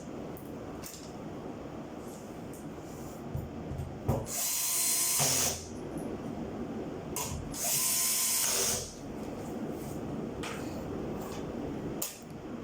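Power drill run twice, about a second each, with a high whirring hiss, among faint clicks of tool handling.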